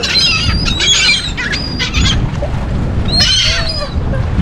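Seagulls calling in several short bunches of high squawking calls as they swoop in for thrown bread. A low steady rumble runs underneath.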